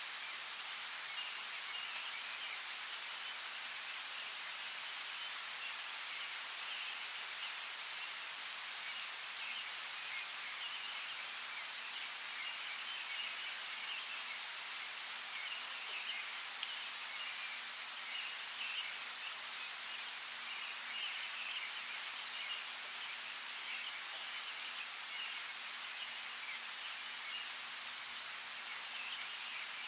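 Steady rain falling, with scattered drops ticking and birds chirping in the background.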